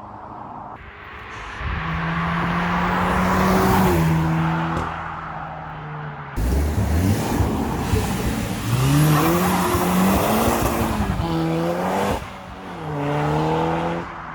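Car engines revving hard and accelerating away, the pitch climbing and dropping with each rev and gear change.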